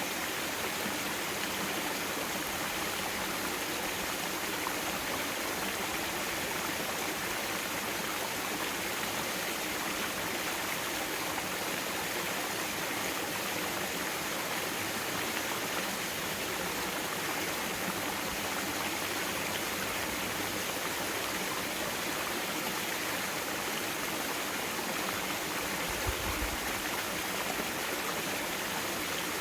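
Mountain valley stream flowing in a steady, even rush of water, with one brief low bump near the end.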